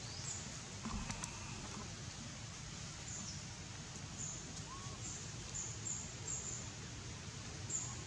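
Small birds chirping in short, high notes, repeated several times in the second half, over a steady low background noise of the outdoors.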